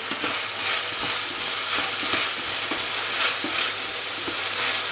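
Chopped vegetables sizzling in oil in a stainless steel frying pan as they are stirred, with a steady hiss and the utensil knocking lightly against the pan every second or so.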